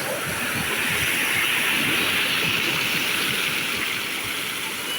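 Sea waves washing ashore: a steady rushing hiss that swells about a second in and slowly eases off toward the end.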